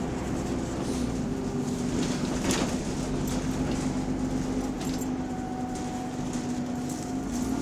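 Bus engine running under way, heard on board, a bus with a large exhaust leak: a steady drone with a sharp rattle about two and a half seconds in and a slight drop in pitch near the end.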